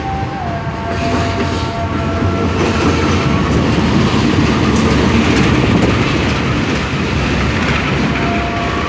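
CC 201 diesel-electric locomotive and its passenger coaches passing close by, a loud steady rumble of engine and wheels on rail that swells about a second in as the locomotive arrives, with wheels clattering over the points. A brief high squeal comes about halfway through.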